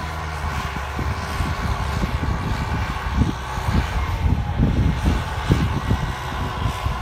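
Farm tractor diesel engine running steadily, with a faint high turbocharger whine over a low, uneven rumble.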